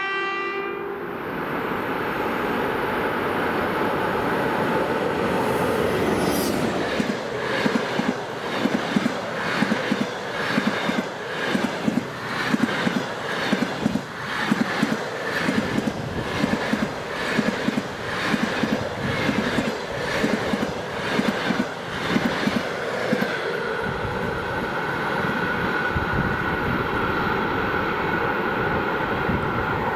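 Passenger train hauled by an EP1M electric locomotive passing close by: after a steady rush of approach noise, the wheels of the coaches beat a long, regular clickety-clack over the rail joints for about fifteen seconds, then settle into a steadier rumble as the train draws away.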